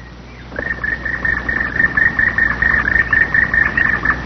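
Black woodpecker calling: a fast, even run of high ringing notes, about six or seven a second, starting about half a second in and lasting some three and a half seconds, over the film soundtrack's steady low hum.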